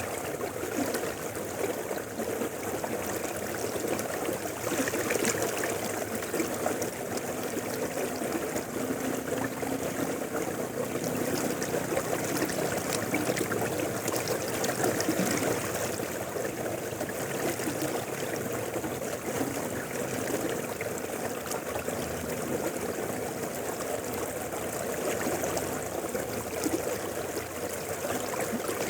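A shallow river flowing steadily over stones, with a continuous babbling and trickling.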